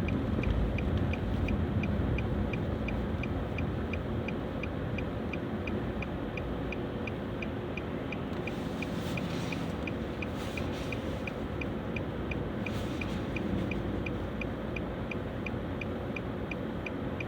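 Steady engine and road rumble inside a Nissan Juke's cabin while it is driven on snowy roads, with a light, evenly spaced ticking about three times a second.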